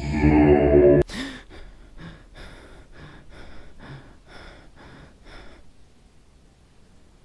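A low, eerie music drone cuts off abruptly about a second in. A man gasps sharply, then pants in quick breaths, about three a second, which fade out by about six seconds.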